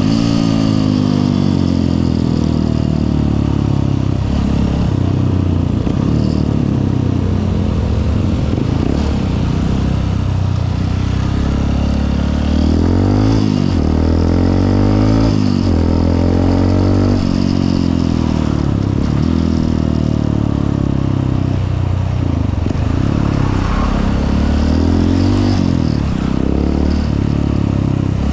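Honda CRF150L's single-cylinder four-stroke engine running on the move, heard from the rider's seat, its pitch rising and falling several times as the bike speeds up and slows in traffic.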